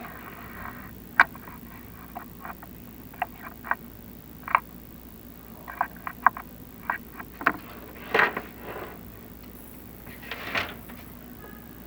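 Chimney inspection camera knocking and scraping against the flue liner as it is lowered down the flue: irregular sharp clicks and taps, with two longer scrapes near the end.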